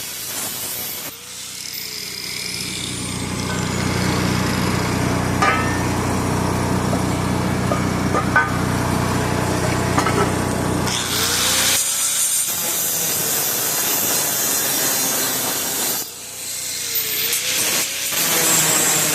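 Power tool cutting through steel exhaust pipe. For most of the first ten seconds a steady motor hum runs under the cutting noise. The sound then turns to a brighter, hissing cut that stops briefly about three-quarters of the way through and resumes.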